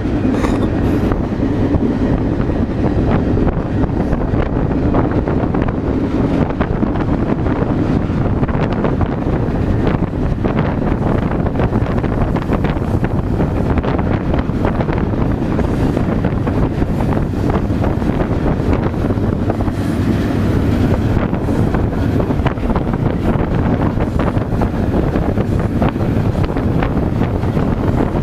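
Wind rushing over the microphone on a moving freight train, over the train's steady rumble and frequent rattles and clanks.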